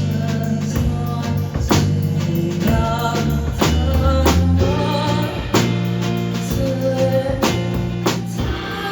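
Live band playing a song. Regular drum kit hits sound over a steady bass line, with pitched guitar or voice lines on top.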